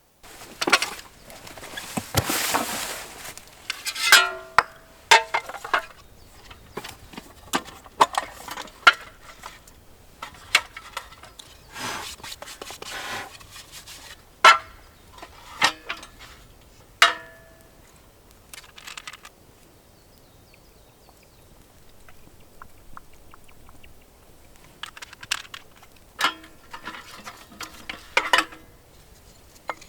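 Camp cooking and eating handling sounds: a series of irregular clinks and knocks of utensils against cookware, several with a short metallic ring, with a rustle about two seconds in.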